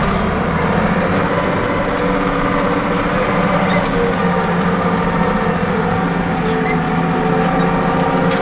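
Fiat tractor engine running steadily at a constant speed.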